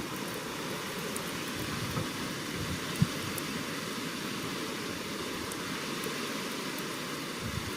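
Steady rushing noise with no thunder, and one short knock about three seconds in.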